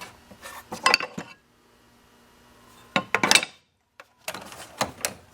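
Metal hand tools clinking and knocking against each other: a few short, sharp clinks about a second in, again around three seconds, and several more near the end.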